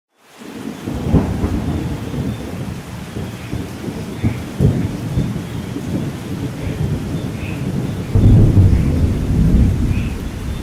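Thunderstorm: steady rain with rolling thunder, fading in at the start, with sharp low cracks about a second in and near the middle and a louder deep rumble of thunder near the end.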